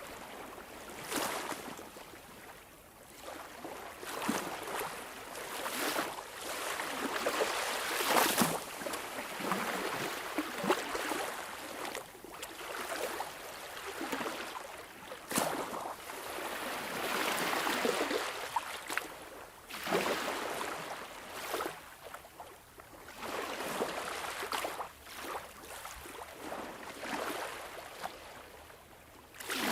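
Sea waves washing in and out, a rush of water that swells and fades every few seconds, with a few sharper splashes.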